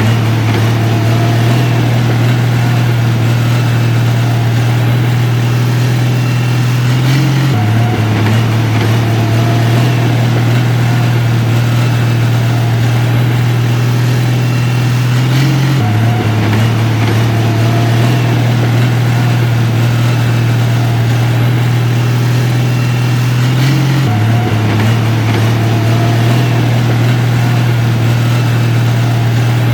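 Heavy diesel engine of a construction machine running steadily with a low, even drone. A brief shift in the drone recurs about every eight seconds.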